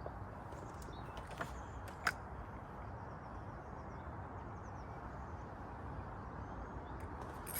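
Steady low outdoor background noise with faint bird chirps, broken by two small clicks or taps about a second and a half and two seconds in and another near the end.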